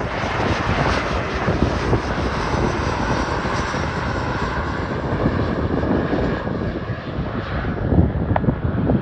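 Mitsubishi CRJ-700 regional jet's twin turbofan engines, loud and steady as it passes overhead on landing approach. Near the end the high-pitched part of the sound begins to fade as it moves away.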